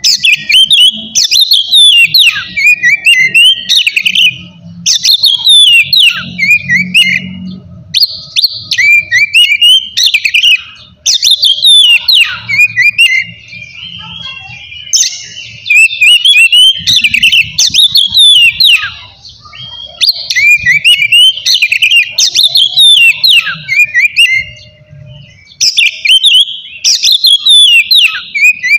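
Oriental magpie-robin (kacer) singing loudly in full, varied song: rapid whistled phrases with fast pitch glides, delivered in bursts of a second or two with short breaks between.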